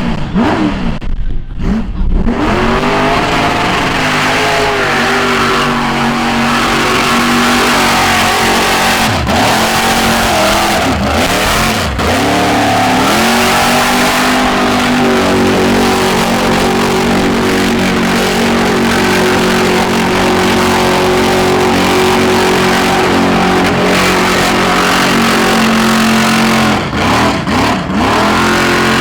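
A truck's engine revving hard, its pitch swinging up and down with several brief drops in revs. For about twelve seconds in the second half it is held at high revs.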